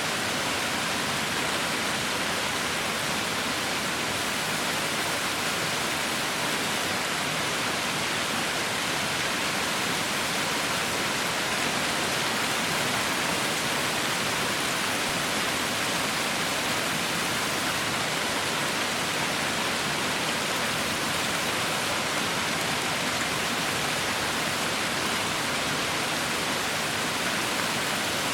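Heavy rain falling steadily, a dense even hiss with no individual drops or thunder standing out.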